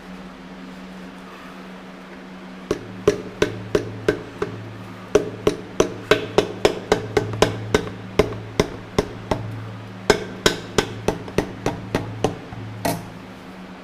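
Hammer tapping in a quick, uneven series of sharp strikes, about two to four a second, starting a few seconds in and stopping near the end, as a part is tapped into place during an engine rebuild.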